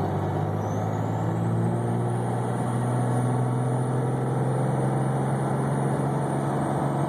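Diesel pickup engine pulling hard under full acceleration, with the compound twin turbochargers spooling: a high whistle rises over the first two seconds, then holds steady.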